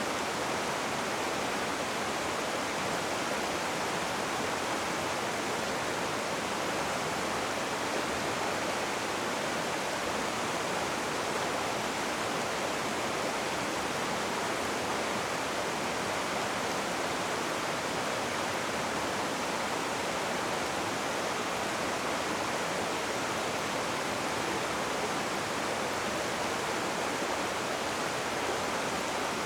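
Rushing river water: a steady, even rush with no pauses or changes.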